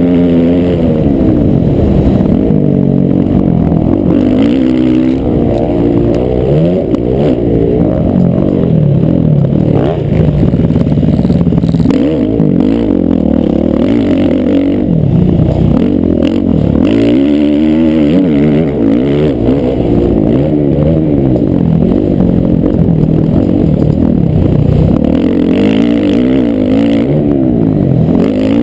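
Several motocross bikes racing, their engines revving up and down through the gears, with the pitches of different bikes rising and falling over one another.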